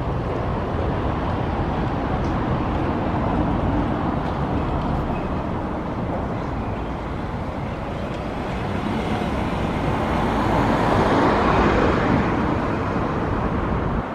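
Steady street traffic noise, with a vehicle passing close and growing louder, loudest about three quarters of the way through.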